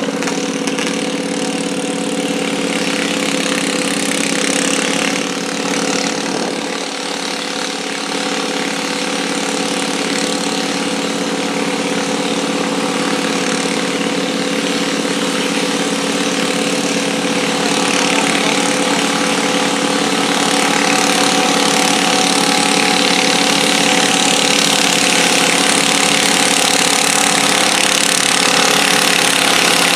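Small single- or twin-cylinder garden tractor engine running steadily, growing slightly louder in the second half.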